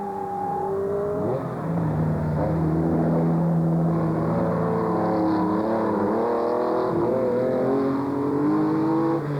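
Classic rally car engine being driven hard up a climb, its pitch rising as it accelerates and dropping back at each gear change, several times over.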